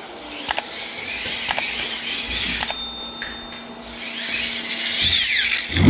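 A small electric motor whirring with a high hiss, and several sharp clicks.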